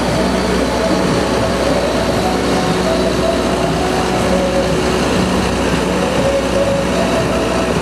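Diesel engine of a Mercedes-Benz Atego-based Magirus turntable ladder truck running steadily, with a humming tone that wavers slightly in pitch.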